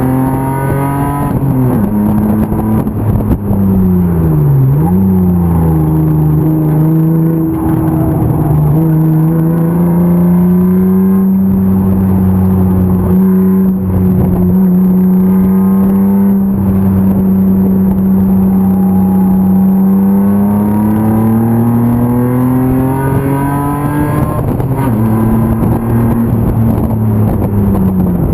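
BMW M50 inline-six engine of an E36 BMW 325 race car at racing revs. The revs fall sharply about four seconds in and climb back, hold nearly steady for about ten seconds, rise again, and drop near the end.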